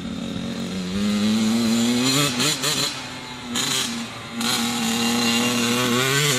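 Dirt bike engine running and revving. Its pitch rises about two seconds in, breaks off, then holds steady and climbs again near the end.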